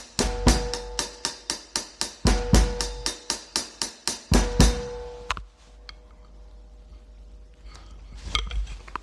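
Instrumental rock backing with a fast, steady drum beat and a held note, ending suddenly a little past halfway; then quiet room sound with a few faint clicks.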